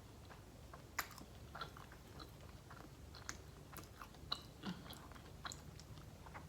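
Close-up chewing of a mouthful of Subway sandwich topped with nacho cheese Doritos: faint, with scattered short crunches and mouth clicks, the sharpest about a second in.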